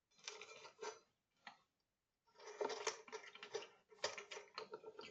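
A kitten chewing and crunching cat food from a plate, in irregular bursts of crisp crunches with short pauses between them.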